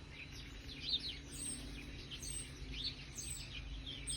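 Several small garden birds chirping and calling over one another in short, high notes and trills, with a faint steady low hum underneath.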